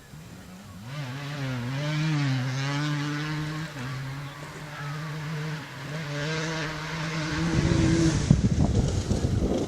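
KTM 300 EXC single-cylinder two-stroke dirt bike engine running at low revs, its pitch wavering up and down. Near the end it turns louder and rougher.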